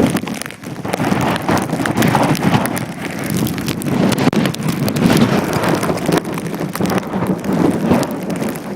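Gusty tropical-storm wind buffeting the microphone, with rain falling; the noise swells and drops every second or so.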